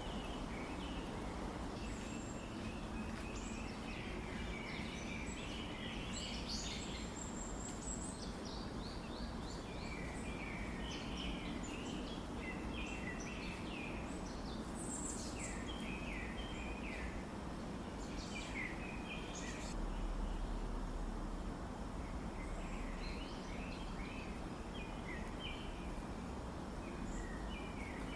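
Birds chirping: many short, quick calls come and go over a steady low background rumble.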